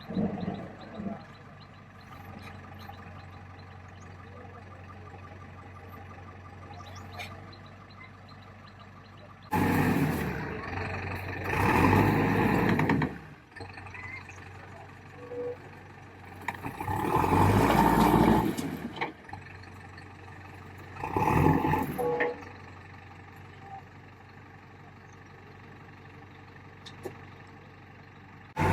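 Backhoe loader's diesel engine running steadily, broken by several loud, noisy surges lasting one to three seconds each.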